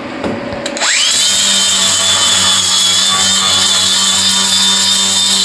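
Angle grinder fitted with a flap disc starting up about a second in, its whine rising quickly and then holding steady and high as the disc runs at full speed.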